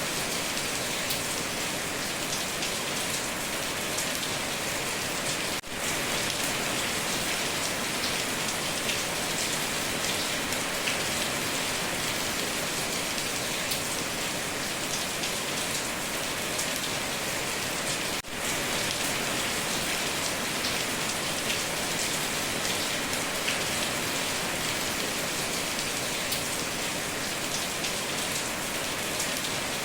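Heavy rain pattering steadily on a tin roof, a dense wash of drop impacts. It dips briefly twice, about five and eighteen seconds in.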